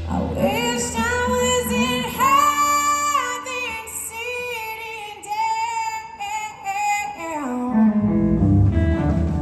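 Live blues-rock band, with a female lead vocal singing a line of held, bending notes over sparse accompaniment. The bass and drums come back in full near the end.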